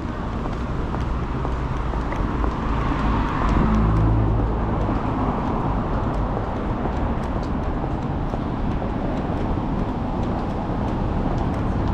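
City street traffic: a steady wash of passing cars, with one vehicle passing close and louder about three to four seconds in.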